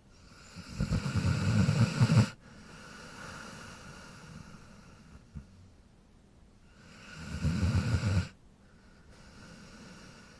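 A dog snoring through two breaths. Each is a loud, rattling snore of about a second and a half to two seconds, followed by a quieter, longer breathy sound.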